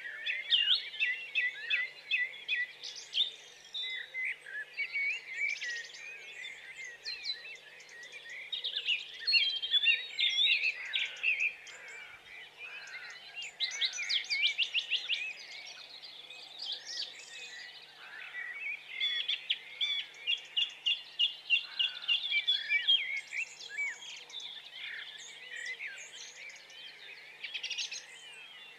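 Many small birds chirping and twittering together, a dense chorus of quick, overlapping high calls and trills.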